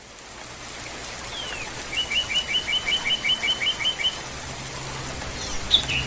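Songbird calling over a steady hiss that fades in: a single falling call, then a rapid run of about a dozen identical chirps, roughly six a second, and a couple of further calls near the end.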